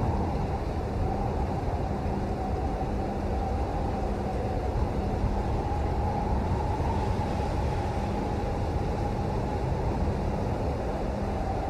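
Rain falling steadily, a continuous low rushing noise.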